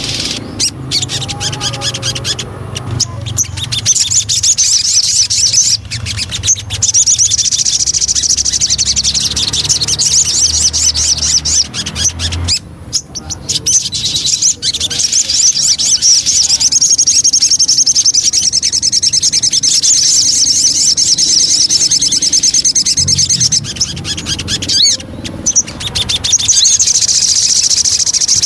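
Sogon bird singing long runs of rapid, high chattering trills, with a few short breaks, as used in a lure recording to set caged sogon birds singing.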